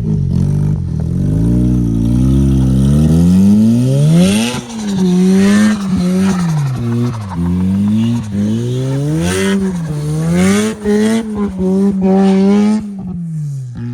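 Turbocharged Mazda 12A two-rotor rotary engine revved in repeated blips, its pitch rising and falling again and again, with turbo flutter as the throttle snaps shut. The revving stops about a second before the end.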